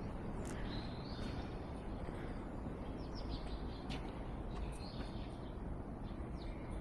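Small birds chirping intermittently in short high calls, several in quick succession near the middle, over a steady low outdoor background hum.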